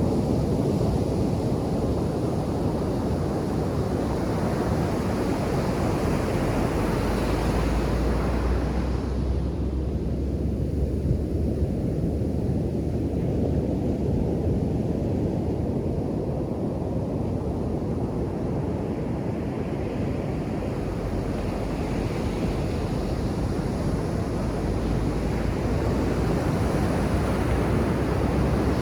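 Ocean surf breaking and washing up a sandy beach, a continuous rush. The hiss swells over the first several seconds, falls away abruptly about nine seconds in, and builds again with the next wave near the end. Wind rumbles low on the microphone, most strongly around the middle.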